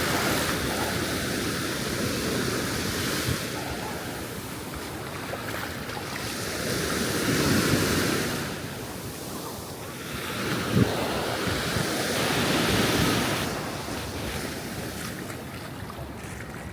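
Ocean surf washing onto the beach in slow swells about every five seconds, with wind on the microphone. A single sharp click about two-thirds of the way through.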